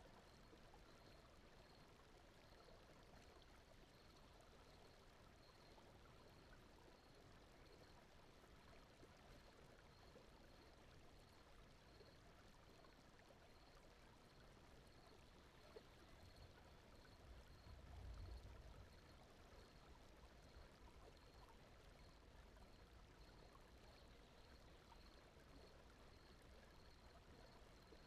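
Very faint, steady flowing-water ambience like a gently running stream, mixed as a soft background noise bed. A faint high pulsing tone sits underneath, and a slight low swell rises and fades about eighteen seconds in.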